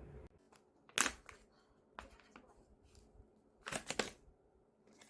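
A few sharp clicks and rustles of things being handled: a loud click about a second in, a softer one at two seconds, and a quick cluster of clicks just before four seconds.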